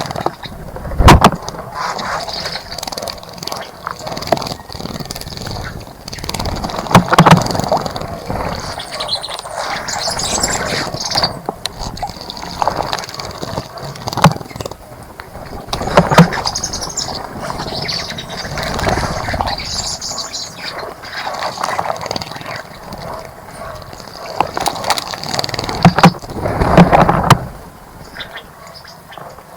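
Birds bathing in a bird bath: water splashing in repeated short bursts, the longest near the end, with bird calls chirping in between.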